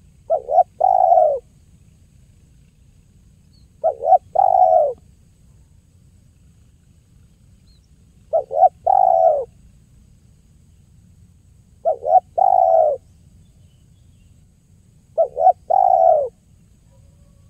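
Spotted dove (tekukur) cooing: a three-note phrase, two short coos and a longer one, repeated five times at about four-second intervals.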